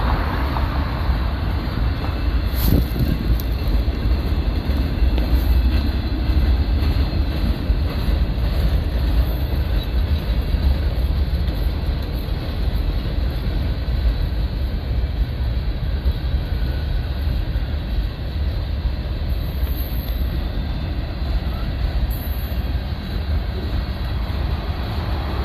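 Freight train cars rolling past: a steady noise of boxcar wheels running on the rails.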